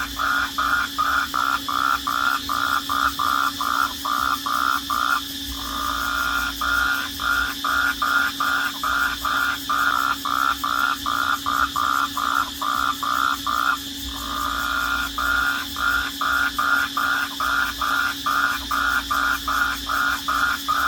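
Night chorus of crickets. A loud chirp repeats about three times a second and twice runs into a continuous trill for about a second, over a steady high-pitched trill.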